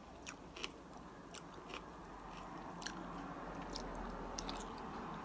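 Close-up eating of boiled chicken feet in a spicy salad: wet chewing and biting with sharp, irregular crunchy clicks as the skin and cartilage are gnawed.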